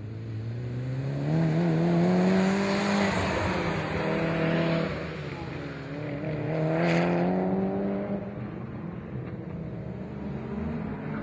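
Mitsubishi Lancer Evolution IX's turbocharged four-cylinder engine revving hard and easing off about three times as the car is driven through tight corners, the engine note climbing and dropping with each burst. A short hiss comes about seven seconds in at the loudest point.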